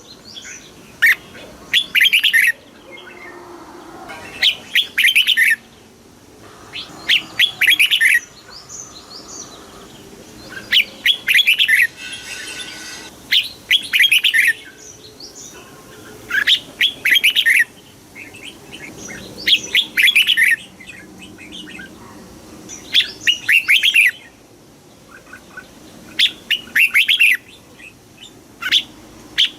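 Red-whiskered bulbul singing: short phrases of rapid, clear whistled notes, repeated about every three seconds.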